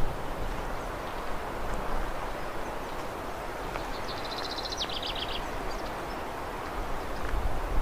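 Outdoor forest ambience with a steady rushing background, and a small songbird giving one fast, high trill about four seconds in that steps down in pitch partway through.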